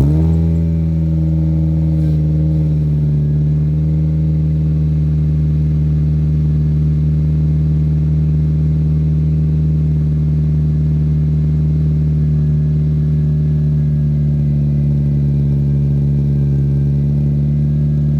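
Car engine on a cold start, its fast idle easing down a little in the first couple of seconds and then idling steadily.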